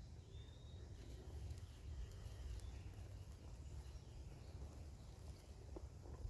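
Quiet outdoor ambience: a steady low rumble, with a few faint, thin, high bird chirps in the first second.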